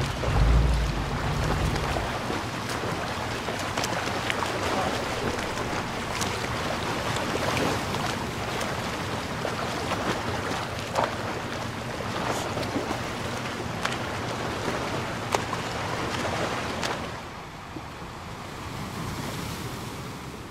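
Fine-tip ink pen scratching across paper as lines are drawn, a steady rasp broken by small sharp ticks as the nib touches down and lifts; it grows quieter near the end.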